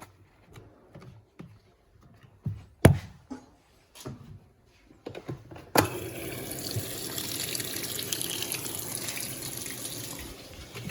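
A few clicks and knocks, one sharp and loud about three seconds in, then a little past halfway water starts rushing steadily into the Electrolux Turbo Compacta washing machine as it fills for the wash cycle.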